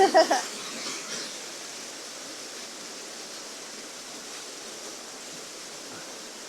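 Steady rush of water from a small woodland waterfall.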